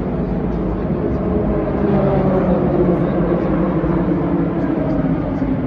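A steady engine drone with a slowly shifting pitch, over the background noise of a busy crowd.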